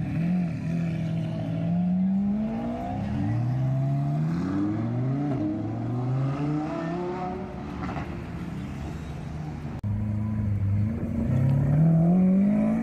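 Lamborghini Aventador SV's naturally aspirated V12 accelerating hard through several upshifts, its pitch climbing and dropping back at each change. After a cut near the end, the engine holds a steady note and then revs up again.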